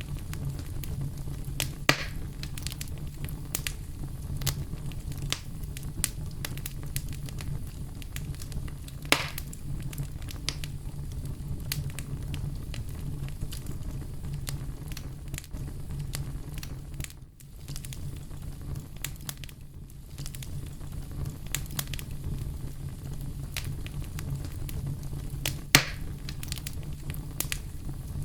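Campfire burning: a steady low rumble under irregular crackles and pops, with sharper pops about two seconds in, around nine seconds and near the end, and a brief lull in the middle.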